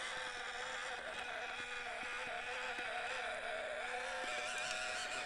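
Electric motor and gearbox of an RC crawler truck whining, the pitch wavering up and down with the throttle, with a few faint clicks.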